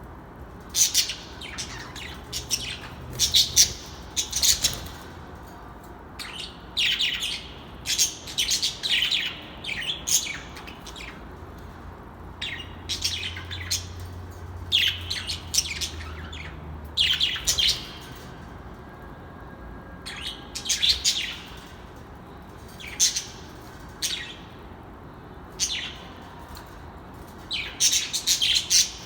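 Birds chirping in short clusters of high chirps, repeated every second or two.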